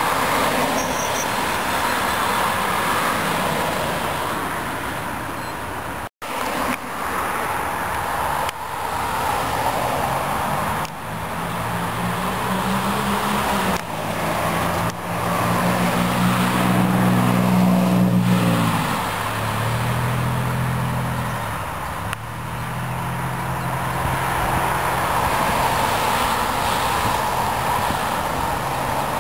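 A motor vehicle engine running, its low hum stepping up and down in pitch over a steady hiss, with a brief break in the sound about six seconds in.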